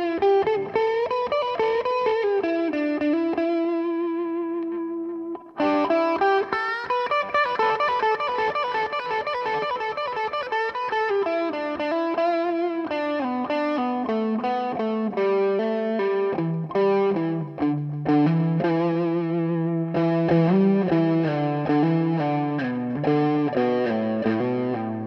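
Electric guitar played through an overdrive and a digital delay: sustained, bent lead notes, a brief break about five seconds in, then a run of changing notes and chords.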